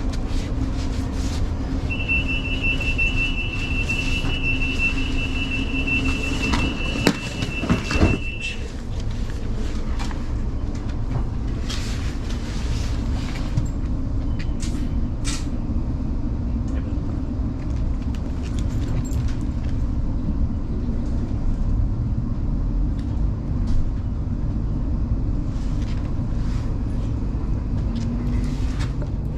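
Inside a train carriage standing at a station: a steady high warning tone sounds for about six seconds while the doors close with a couple of knocks, then the train moves off with a constant low rumble and occasional clicks and rattles.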